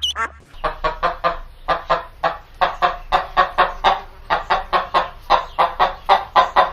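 Chicken clucking in a fast, even series of short calls, about four a second.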